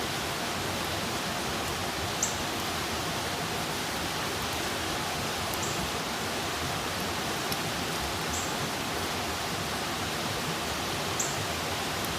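Campfire burning with a steady hiss and a few sharp crackles, the clearest about two seconds in and near the end.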